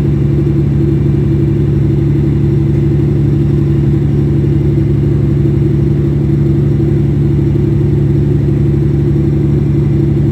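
Fishing boat's engine running steadily at a constant speed, a loud, even low drone with a fast regular pulse.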